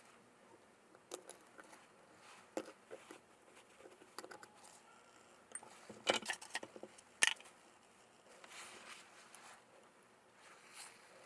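Scattered small clicks, taps and rattles of small parts being handled by hand, with a quick cluster of sharper clicks about six to seven seconds in.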